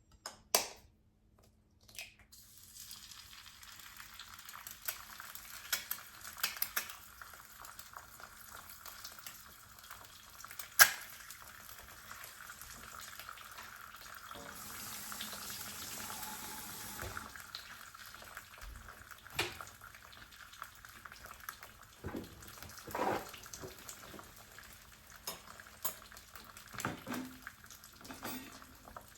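An egg frying in a pan: a steady sizzle that starts a couple of seconds in and swells briefly in the middle. Sharp clinks and knocks of utensils and dishes come every few seconds, the loudest about eleven seconds in.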